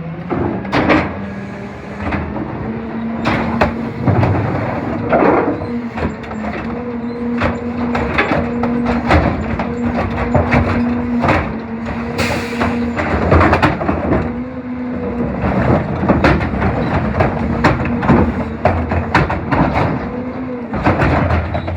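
CNG CCC rear-loader garbage truck with a New Way body, running with a steady held hum from its engine and hydraulics, amid frequent clanks and bangs of refuse being tipped and packed. A short hiss comes about twelve seconds in.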